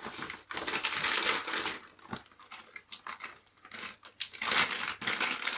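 Crinkling and rustling of things being handled, with small clicks, in uneven spells, loudest at the start and again near the end.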